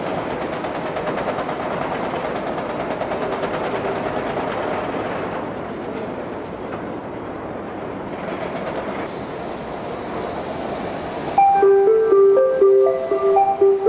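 Electric commuter train running on the rails, with a steady rumble and wheel clatter that eases off somewhat partway through. About eleven seconds in, a short melody of clear chime-like notes starts and carries to the end, louder than the train.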